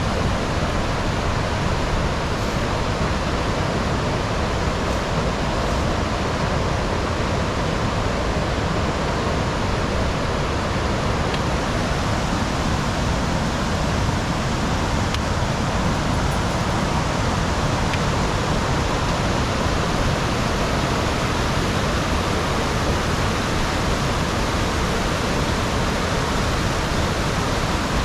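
A mountain river rushing over rocks and boulders: a steady, unbroken rush of water.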